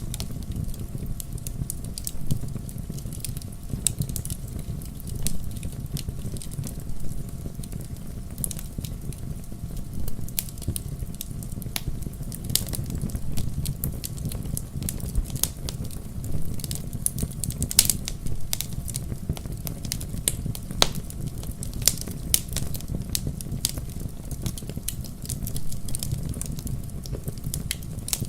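Wood fire crackling in a fireplace: frequent irregular pops and snaps, a few louder than the rest, over a steady low rumble.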